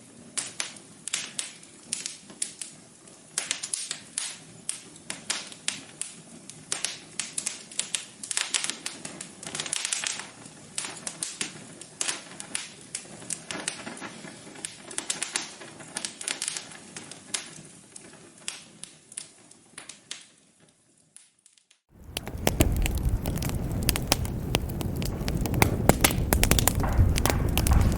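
Wood fire crackling in a fireplace, with quick irregular pops and snaps. About twenty seconds in it fades away, and after a short gap a louder, fuller crackling with a low rumble starts.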